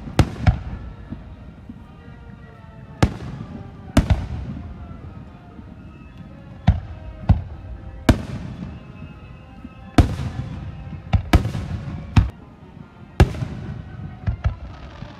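Aerial fireworks shells bursting: more than a dozen sharp bangs at irregular intervals, sometimes two close together, each trailing off in a rolling echo over a continuous low rumble.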